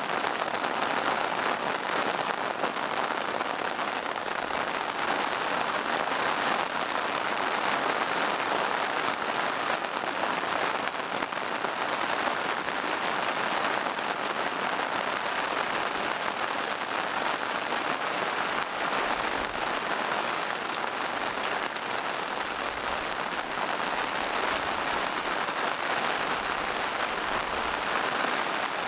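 Steady rain falling on forest leaves and mossy rocks, a dense patter of drops with no let-up.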